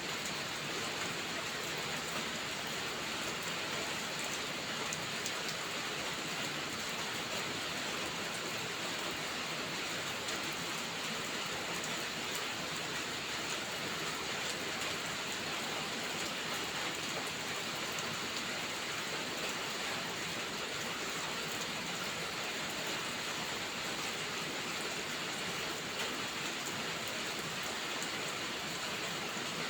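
Steady rainfall, an even hiss with faint scattered ticks that does not change.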